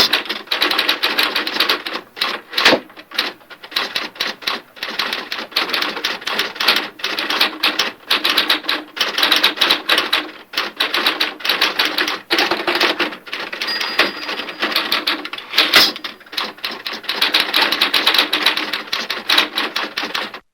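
Mechanical typewriter being typed on steadily, a fast, uneven run of key strikes with a few louder clacks, and the sound cuts off at the end.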